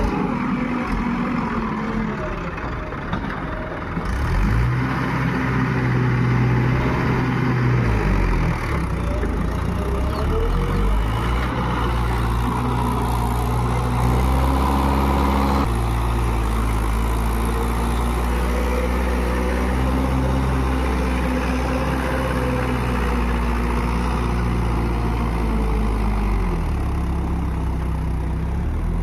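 Heavy diesel engines of a backhoe loader and tractor running under work, their steady low note stepping up and down as the throttle changes. The sound gets louder about four seconds in.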